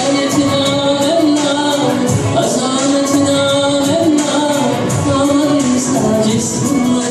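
Ilahi-style devotional music: a voice singing long, wavering held notes over hand-percussion accompaniment.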